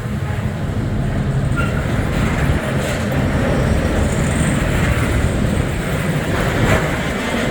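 A train passing a level crossing, a steady, loud noise of its wheels running on the rails.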